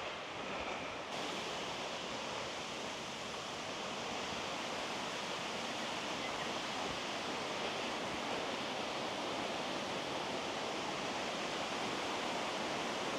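Running water of a forest stream, a steady rushing hiss that grows slowly louder.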